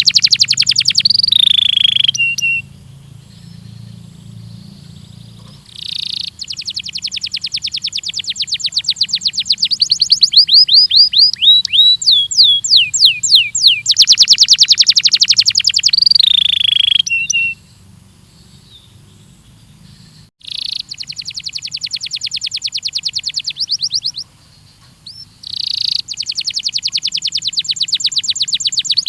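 Belgian canary singing long, loud phrases of very rapid repeated notes in fast trills, some phrases ending in falling slurred whistles, with a few short pauses between phrases. A faint low hum runs underneath.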